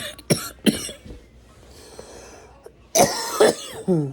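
A person coughing hard, typical of smoke from a blunt: three quick coughs, a softer breath out, then a second, louder coughing fit about three seconds in, the last cough trailing off into a voiced sound that falls in pitch.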